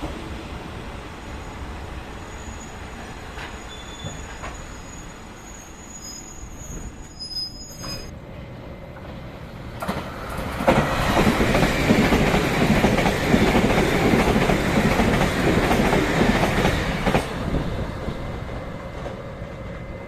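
A train going by: a steady rumble with faint high wheel-squeal tones in the first half. About ten seconds in it suddenly grows much louder for some seven seconds as the cars pass close, then fades.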